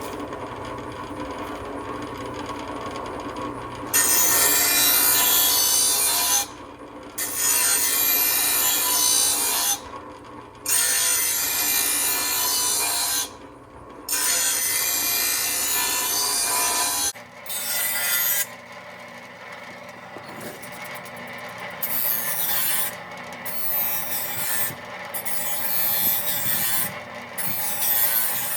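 Grinder running, then a steel lawn mower blade held against the spinning grinding wheel in several long, loud grinding passes of a few seconds each with short breaks, sharpening the blade's dull cutting edge. From about halfway the grinding goes on quieter and more broken.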